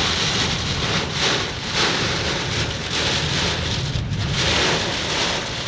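Heavy rain pouring down in strong wind: a steady rushing hiss that swells and eases as the gusts come and go.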